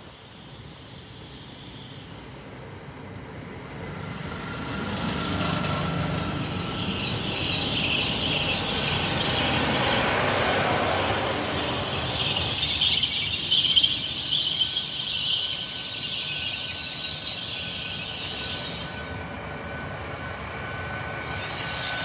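Great Western Railway Hitachi Intercity Express Train running in alongside the platform, its noise building as the carriages pass close by. A sustained high-pitched squeal from the running gear comes in about five seconds in, is loudest around the middle and fades a few seconds before the end.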